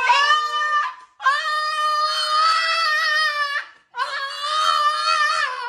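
Three long, high wails, each held for one to two and a half seconds, with a wavering pitch and short breaks between them.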